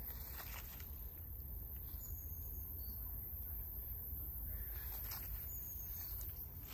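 Outdoor ambience: a steady low rumble with a few faint, short, high bird chirps, one about two seconds in and another about two-thirds of the way through.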